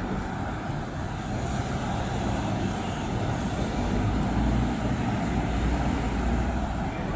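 Steady low rumble of motor traffic, with a deeper engine drone that builds from about four seconds in and then holds.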